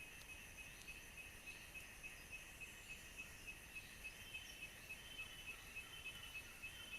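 Faint outdoor ambience of insects chirping: a steady, high, rapidly pulsing chirp at about five pulses a second, with a second similar chirp joining about five seconds in.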